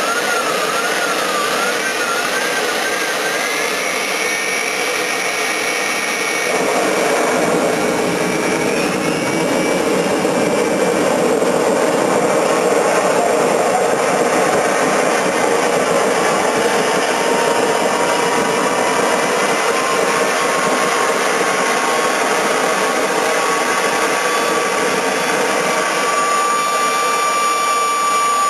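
Homemade model turbojet engine running self-sustained at about 70,000 rpm: a steady, loud rushing roar with high whining tones on top. The whine wavers quickly in pitch for the first few seconds, then settles, and a tone slowly rises over the last third.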